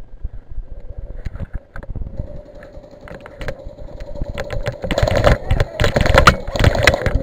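Airsoft guns firing, rapid mechanical clicking that grows denser over the last couple of seconds. Scuffing knocks and a steady hum run underneath.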